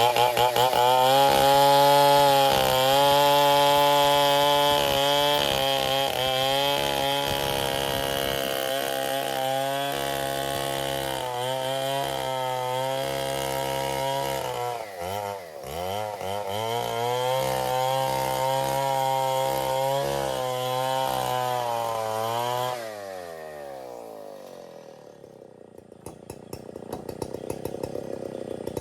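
STIHL 070 two-stroke chainsaw running at high revs under load, sawing ironwood, with a brief dip and recovery in engine speed about halfway. About 23 s in the revs fall away as the throttle is released, and a quieter rattling follows near the end.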